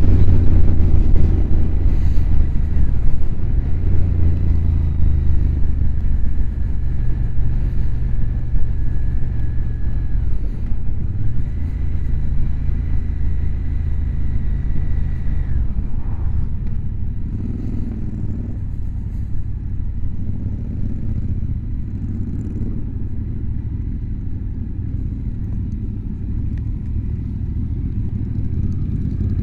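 Motorcycle engine running at steady road speed, heard from the rider's helmet with wind noise over it. The engine note changes about halfway through and the sound slowly gets quieter.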